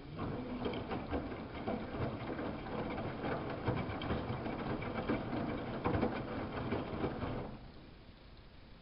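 Samsung WF71284 washing machine's drum turning for about seven seconds, with a dense, irregular patter of the wet load tumbling inside. It starts suddenly and stops suddenly, one turning phase of the wash cycle.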